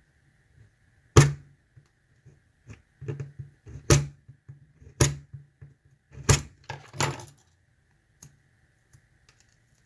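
Keys and a lock being handled: a series of sharp clacks and knocks, five loud ones among smaller clicks, fading out after about seven seconds.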